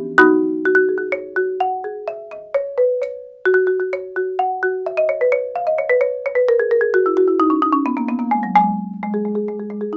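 Solo marimba played with four mallets: struck notes and chords ringing briefly, a short break about three seconds in, then a quick descending run of notes, and repeated low notes near the end.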